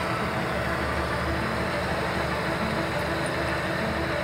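Valtra S416 tractor engine running steadily.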